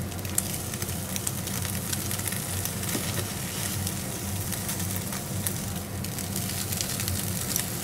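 Mackerel-and-tofu patties frying in oil in a nonstick pan, a steady sizzle with scattered crackles, over a steady low hum.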